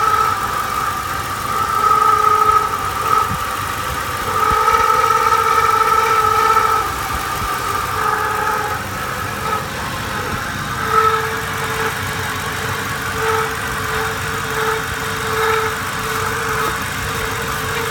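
A 2007 Ford Explorer Sport Trac's 4.6-litre V8 runs with an odd whining tone of unknown cause. The whine comes and goes in stretches of a second or two, then after about eleven seconds turns into a regular pulsing, roughly three pulses every two seconds.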